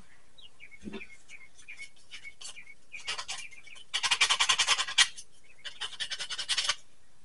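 Short falling bird chirps, repeated every half second or so, with two louder bursts of fast rattling about four and six seconds in.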